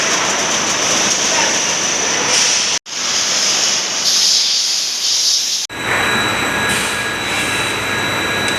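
Steady factory machinery noise with a hiss and a thin high whine, heard in three shots cut together about three and six seconds in.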